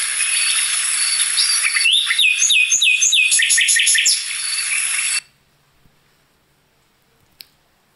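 Birds chirping and singing together in a dense chorus, with a quick series of repeated chirps in the middle; the birdsong stops abruptly a little over five seconds in.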